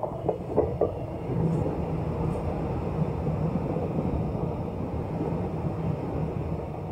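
Electric commuter train passing close by, with a steady loud rumble of wheels on the rails. A few quick clacks come in the first second as the front of the train goes by.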